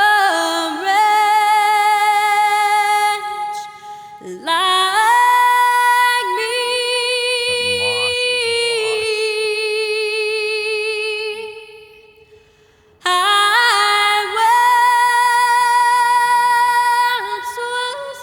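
Music: a high female voice singing long held notes in three slow phrases, with short breaths between them.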